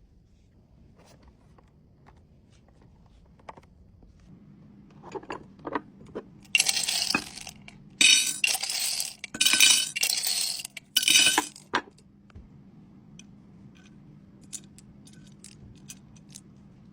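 Small metal trinkets clinking and jangling as they are handled. Scattered light taps come first, then a run of loud, bright jangling bursts for about five seconds in the middle, then a few more light taps.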